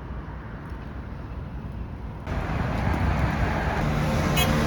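Outdoor street noise: a steady low rumble of wind on the microphone and traffic, turning abruptly louder and hissier about halfway through.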